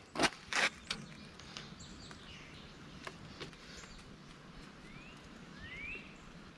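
A few sharp clicks in the first second, then faint outdoor background with a bird giving two short rising chirps near the end.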